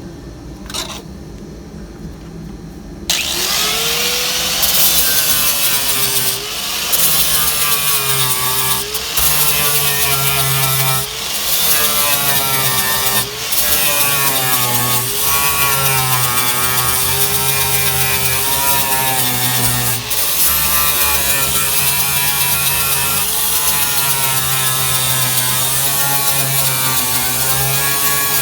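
Power grinder with a flap disc (flapper wheel) starting about three seconds in and grinding galvanized sheet-metal floor, stripping the zinc coating before welding; its whine dips and recovers repeatedly as the disc is pressed into the metal.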